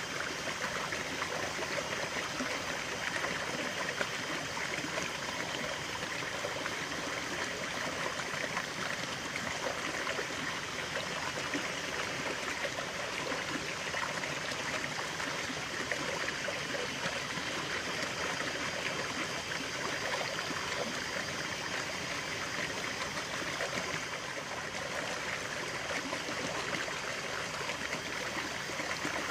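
Natural stream running steadily, a continuous babbling and trickling of water over stones.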